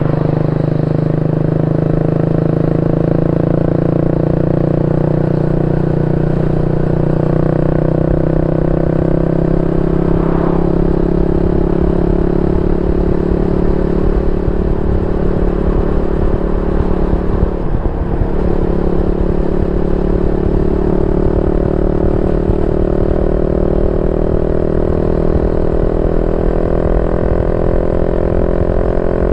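Yamaha Y15ZR's 150cc single-cylinder four-stroke engine running steadily through a YYPANG SD3 aftermarket exhaust, its pitch creeping slowly up in the last third.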